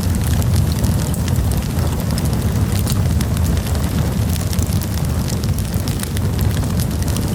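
Campfire burning, with frequent sharp crackles and pops from the burning wood over a steady low rumble of the flames.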